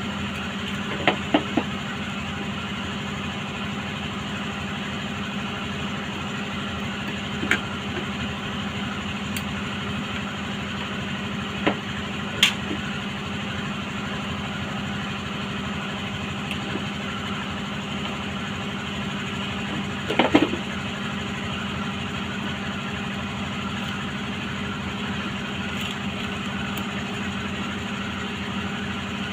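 Steady hum of a running motor, with a few sharp clicks and knocks of metal parts being handled, the loudest about two-thirds of the way through.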